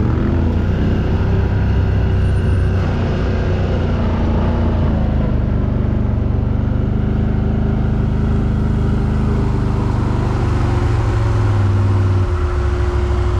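Quad bike (ATV) engine running loudly and steadily, its pitch wavering a little; the engine note changes about twelve seconds in.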